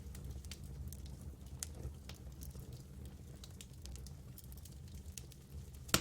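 Campfire crackling: irregular sharp pops and snaps over a low steady rumble, with the loudest pop near the end.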